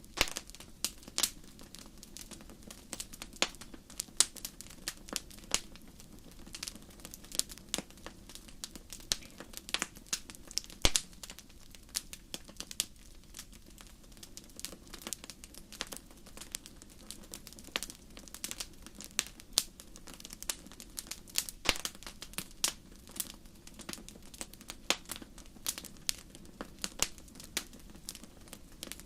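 Campfire of burning wood crackling, with many irregular sharp pops and snaps over a steady low rumble of the flames. One louder snap comes about eleven seconds in.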